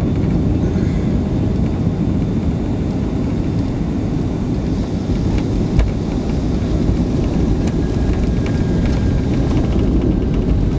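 Steady low rumble of a Boeing 757-200's engines and airflow heard inside the cabin, with a single brief knock about six seconds in.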